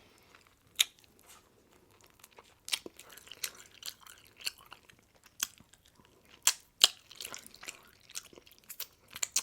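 Close-miked chewing of pizza: irregular wet mouth clicks and smacks, a few a second, getting busier after the first couple of seconds.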